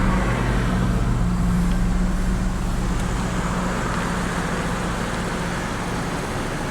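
Steady drone of a moving car heard from inside the cabin: road and tyre noise under a low engine hum that eases a little partway through.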